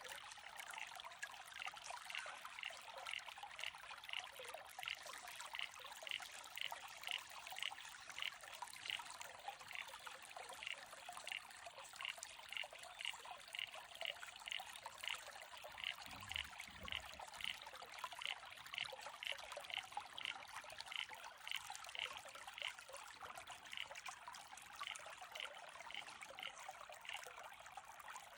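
Water trickling, with a short high call repeated about twice a second, which the uploader wonders is a pobblebonk (eastern banjo frog). A brief low thump about halfway through.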